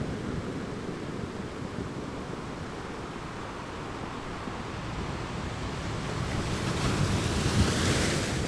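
Ocean surf washing on a shore. A steady wash builds over the last few seconds into the hissing rush of a breaking wave.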